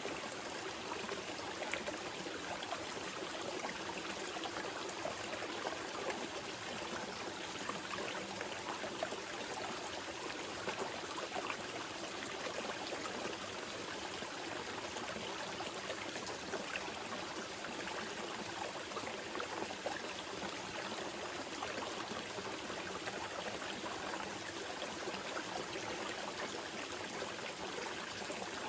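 Small mountain river flowing steadily, a continuous rush of water with fine splashing and trickling over rocks.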